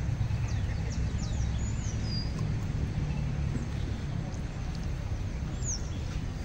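Birds chirping now and then, short high calls scattered through, over a steady low rumble.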